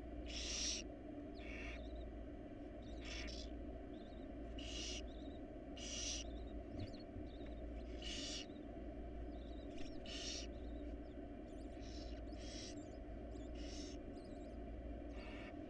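Barn owl nestlings giving rasping, hissing begging calls, about eleven short hisses each lasting about half a second, sometimes overlapping, over a steady low hum.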